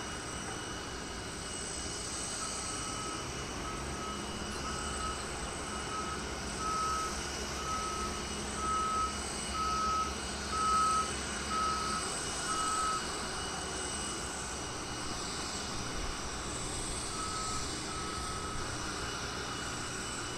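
Reversing alarm of an airport ground-service vehicle on the apron, beeping about once every 0.8 seconds for some ten seconds, then twice more near the end. Under it runs the steady whine and rumble of aircraft engines.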